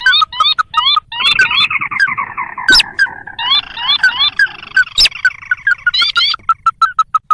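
Sintar crakes (ruddy-breasted crake) calling on a bird-lure recording. Fast runs of short repeated notes, about six a second, mix with higher upward-hooked notes as several calls overlap, and sharp clicks are scattered through.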